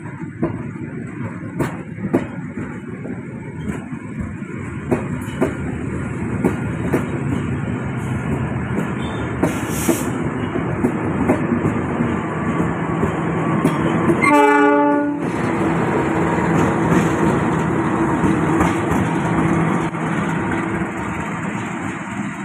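A train passing close by, its wheels clicking over the rail joints in a steady rhythm. A short horn blast sounds about fourteen seconds in.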